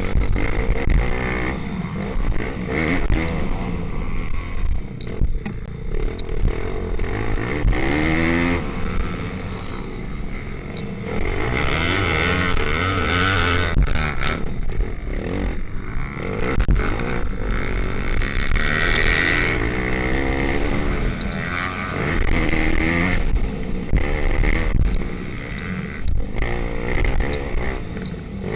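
Pitbike racing motorcycles' small single-cylinder engines, revving up and down repeatedly as they accelerate and shift.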